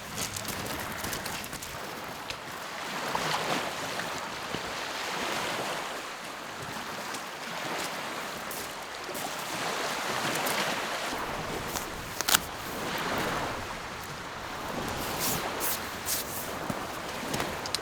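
Small lake waves washing onto the shore, swelling and fading every few seconds. A few sharp clicks sit on top, the loudest about twelve seconds in.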